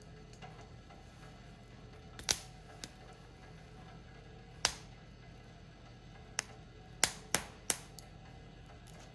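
Firewood burning in a portable fire pit, popping and cracking sharply about eight times over a low steady background, with a quick cluster of pops about seven seconds in.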